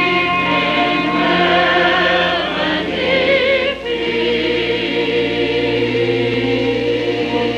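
Church chancel choir singing held chords with vibrato. The high voices are prominent about three seconds in, then there is a brief break and a new sustained chord.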